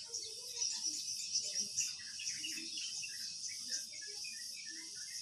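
Insects chirring steadily, with many short bird chirps over it.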